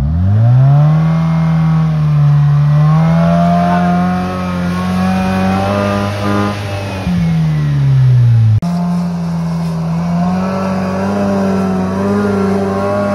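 A small 4x4 car's engine revving hard, held at high revs and wavering under load as it climbs a steep gully. The revs rise sharply at the start and sag near the middle, then the sound jumps back abruptly to high revs.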